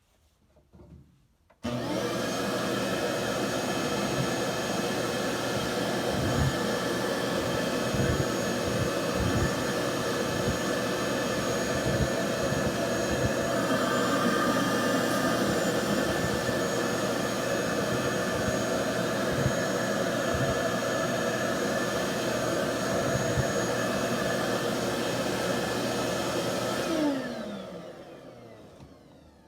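Vacuum cleaner switched on, running steadily with a few knocks of the nozzle, then switched off near the end, its whine falling in pitch as the motor winds down.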